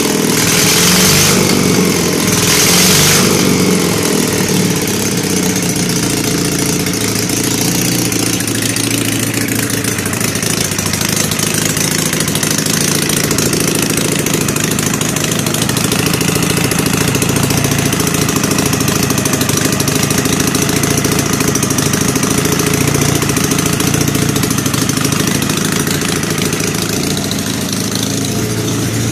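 Freshly rebuilt M72 side-valve flat-twin motorcycle engine, fitted with oversize car pistons, on a test run. It is blipped twice, in the first three seconds, then idles steadily.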